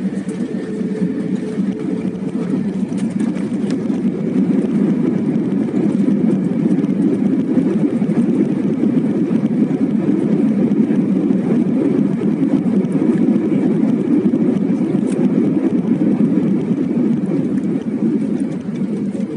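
Cabin noise inside an Airbus A320 during landing: a steady, low rushing of the engines and airflow. It grows louder about four to six seconds in, holds, and eases slightly near the end.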